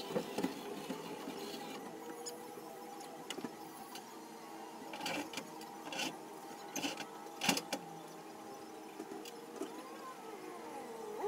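A car engine running steadily, with several sharp knocks about midway and a wavering whine near the end.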